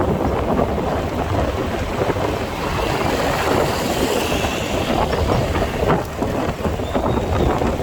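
Riding a motorcycle in traffic: wind buffets the microphone over the rumble of the bike and the road.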